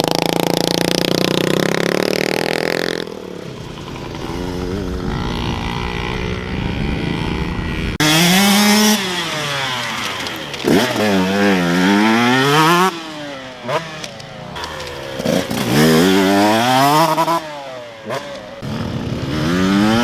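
Dirt bike engine revving hard, its pitch rising and falling again and again as the throttle is worked through the gears. Loud in the first three seconds, quieter for a while, then close and loud again from about eight seconds in.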